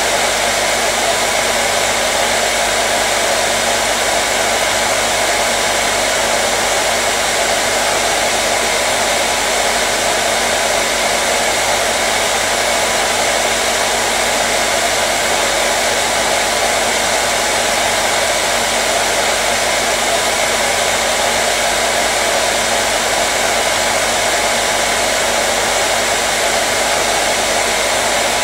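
Hair dryer running steadily: an even, unbroken blowing hiss with a faint steady hum of its motor underneath.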